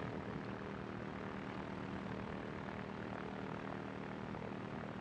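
Small aircraft's two-stroke engine and propeller running steadily at low power while taxiing, the engine still warming up toward operating water temperature.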